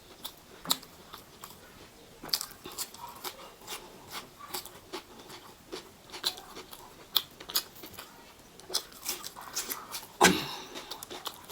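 Close-miked eating: irregular wet mouth clicks, smacks and crunches of chewing, with a louder burst of chewing sound about ten seconds in.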